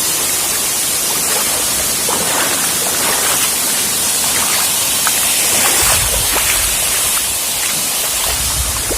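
Waterfall rushing: a steady hiss of falling water, with low rumbles about six seconds in and again near the end.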